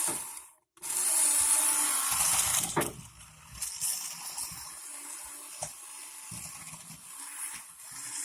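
Toy radio-controlled off-road monster truck running, its small electric motor and wheels making a hissing whir. The whir is loudest for the first couple of seconds and then goes on more quietly.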